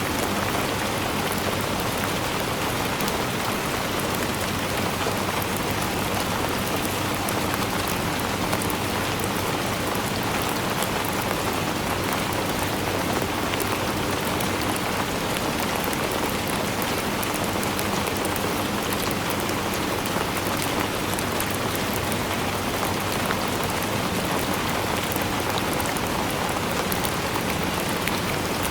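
Steady rainfall, a dense even patter of drops with fine ticks of individual drops, unchanging throughout.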